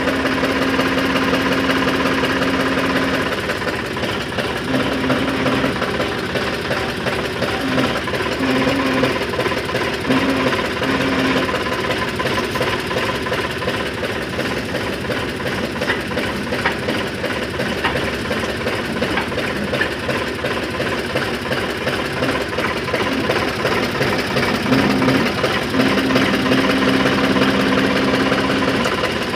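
Sonalika RX60 tractor's diesel engine running with the stone picker machine, a steady engine hum under a dense, continuous rattling clatter. The hum swells in and out, strongest at the start and again near the end.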